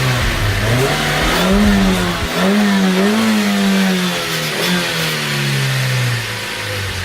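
Car engine revving, its pitch rising about a second in, rising and falling a few times, then dropping back near the end.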